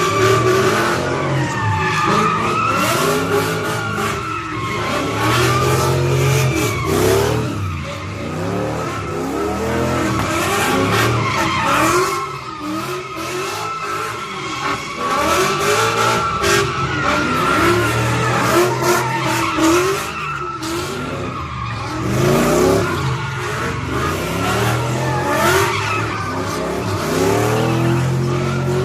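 A car engine revving up and down again and again while its tyres squeal and skid without letup, as a car spinning donuts does.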